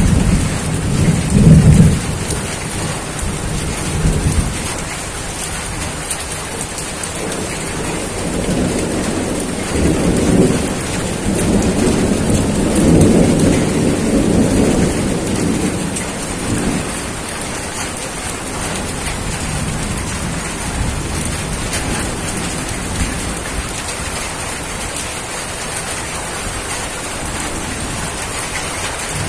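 Steady rain falling, with rolls of thunder rumbling near the start and again through the middle, then dying away to rain alone.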